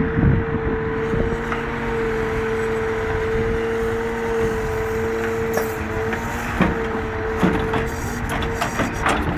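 Scania 164C's V8 diesel engine running steadily under load while it powers the truck-mounted timber crane, with a steady whine held throughout. A few short knocks come in the second half.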